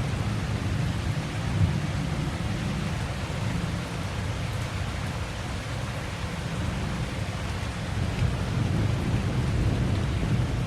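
Heavy rain falling steadily, with a low rolling rumble of thunder underneath, a little stronger near the start and end.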